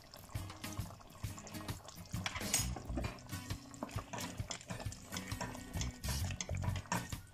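Liquid sounds, water running or being poured and stirred, with many small clicks and knocks, over background music.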